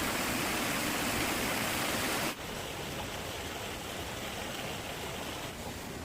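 Steady rushing of running water, dropping abruptly to a quieter level about two seconds in.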